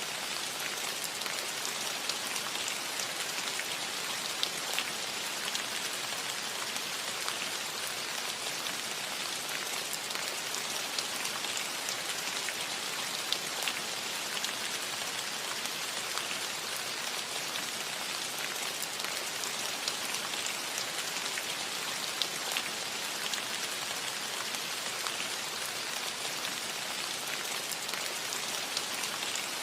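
Steady rain falling on a metal roof: an even hiss of rainfall with many small, scattered drop ticks.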